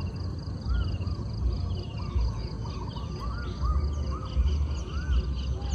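Birds calling: many short chirps that rise and fall, some higher falling notes, over a steady low rumble.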